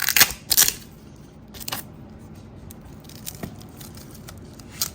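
3M double-sided tape being pulled off its roll and torn, with a few short ripping sounds in the first second, then faint handling clicks.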